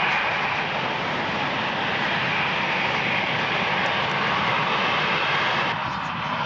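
Airbus A320's jet engines at takeoff power during departure: a steady, loud rushing noise that eases slightly near the end.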